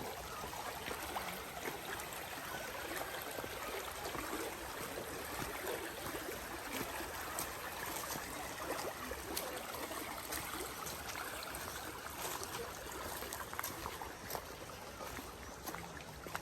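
A stream running steadily, with a few faint clicks over it.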